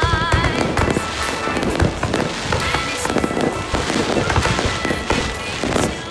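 Fireworks going off in a dense, continuous string of bangs and crackles, with music playing underneath.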